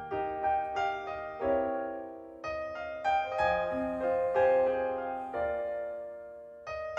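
Solo piano playing a slow introduction: chords struck about every second or two, each left ringing and fading before the next.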